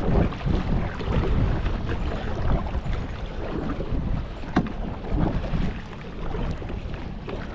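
Wind buffeting the microphone over choppy lake water, with one sharp knock about four and a half seconds in.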